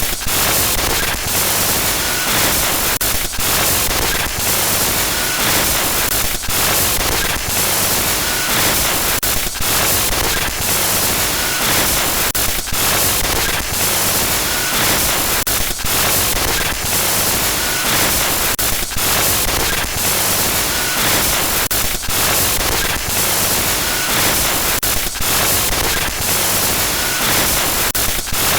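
Harsh glitch-noise sound effect: a loud, unbroken wash of static hiss across the whole range. It stutters with short dropouts about every three seconds, and a faint short beep recurs at about the same pace.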